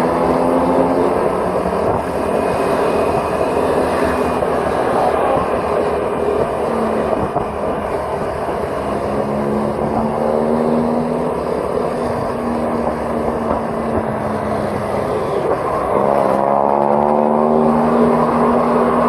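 Engine of the vehicle being driven along the road, running over a steady rush of road and wind noise. Its pitch rises about halfway through and again near the end as it speeds up.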